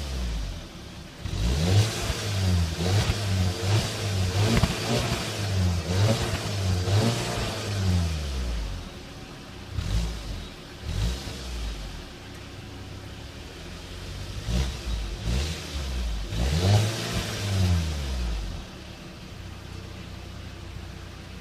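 Škoda Octavia RS230's turbocharged 2.0-litre four-cylinder petrol engine and exhaust, revved up and let fall again many times in quick succession. Near the end it settles back to a steady idle.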